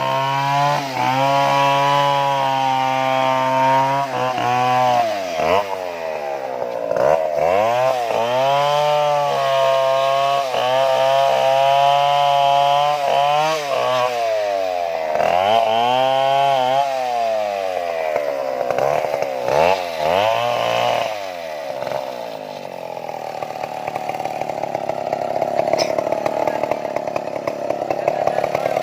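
Stihl chainsaw engine run up to full throttle and held there in several long stretches, dropping back between them, with the pitch rising and falling each time. In the last several seconds it runs rougher and less steady.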